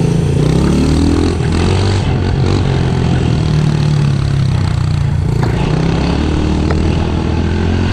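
Small off-road vehicle engine running close by, its pitch rising and falling as the throttle is worked.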